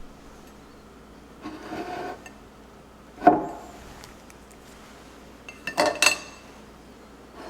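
Dishes and kitchen utensils being handled: a scraping rub, a sharp knock about three seconds in, and a quick run of clinks with a brief ring near the end.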